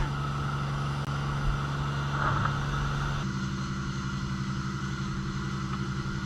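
Petrol engine of a pressure washer running steadily. About three seconds in the hiss above it drops away and the engine note shifts, as the spray stops while the engine keeps running.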